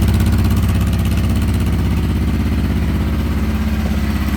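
1989 Honda Transalp 600V's V-twin engine idling steadily with an even pulse as it warms up after a cold start.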